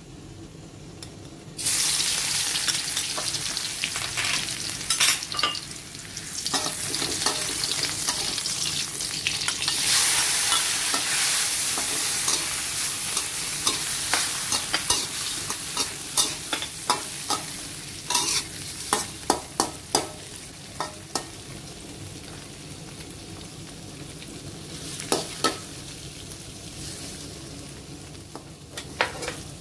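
Chopped garlic dropped into hot oil in an aluminium wok: a loud sizzle starts suddenly about two seconds in. Shrimp are then stir-fried, with a metal spatula scraping and tapping against the wok in quick clicks. The sizzle slowly dies down later on.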